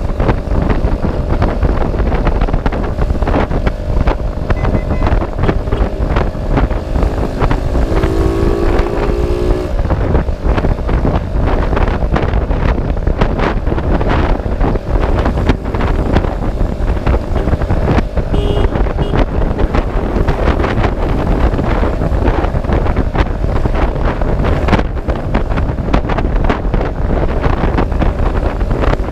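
Wind rushing over the microphone of a moving vehicle, a dense steady noise strongest in the low end, with a faint engine hum beneath. A short pitched tone sounds about eight seconds in.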